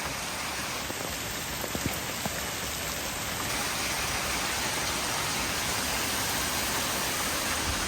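Heavy rain coming down extremely hard, a steady even hiss of pouring rain with a few faint ticks of drops about two seconds in.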